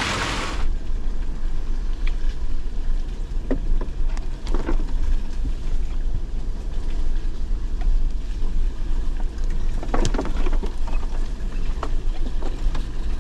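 Off-road vehicle crawling over a rough trail: a steady low rumble with scattered knocks and rattles, after a loud hiss that cuts off under a second in.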